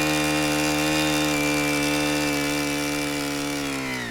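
Small engine of a power tool running at a steady high speed, then dropping in pitch near the end as it slows.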